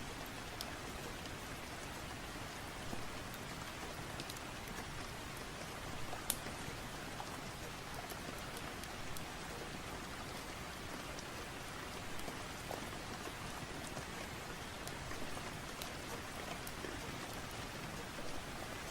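Steady rain falling, with a few sharp ticks in it, the clearest about six seconds in.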